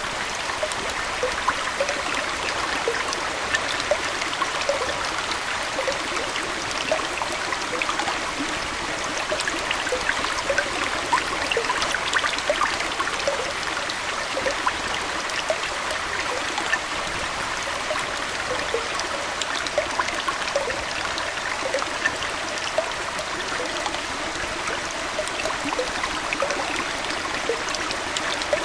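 Aquarium water flowing and trickling steadily, with many small bubbly plinks scattered through it.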